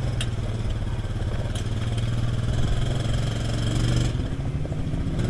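A vehicle engine running steadily at a low, even pitch, with a couple of faint clicks.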